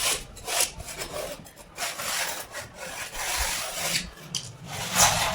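Rough scraping strokes, uneven and unpitched: a mason's hand tool rubbing over tile or mortar. The loudest stroke comes near the end.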